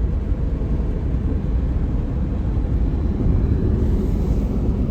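CSX train moving slowly, a steady low rumble.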